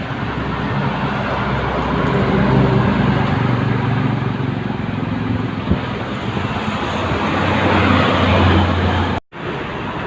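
Heavy truck's diesel engine running as it passes on a highway amid traffic noise, growing louder over several seconds, with a short knock about halfway through. The sound cuts off abruptly near the end, then steady road noise resumes.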